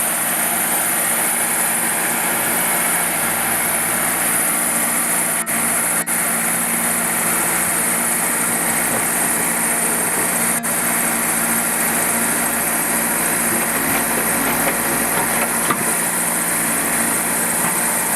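Diesel engine of an earthmoving machine running steadily under a strong high hiss, with a few split-second dropouts.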